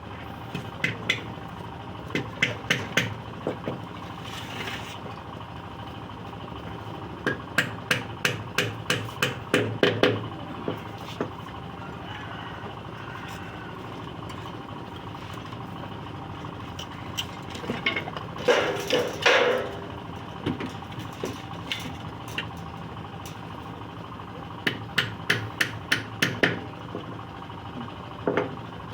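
Hammer blows on wood in several runs of quick strikes, about two or three a second, as a scrap-wood nest box is nailed together. A longer, rougher sound comes about two-thirds of the way through.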